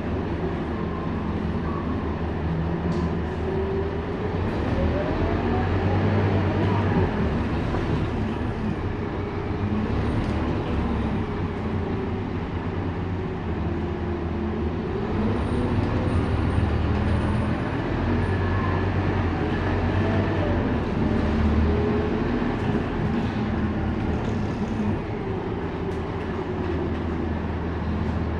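Scania K230UB city bus's diesel engine running under way, its note rising and falling in pitch several times as the bus accelerates, shifts gear and slows.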